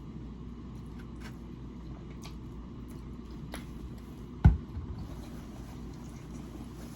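Quiet eating sounds, faint chewing and small clicks of handling food, as pork ribs are eaten, over a steady low hum. One sharp thump about four and a half seconds in, louder than anything else.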